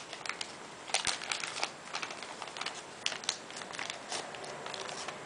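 A sheet of paper being folded and creased by hand, crinkling with many short, irregular crackles.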